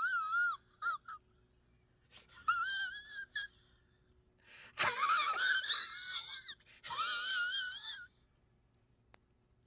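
Tule elk bugling: a series of high, wavering whistle-like calls, the longest lasting about two seconds near the middle.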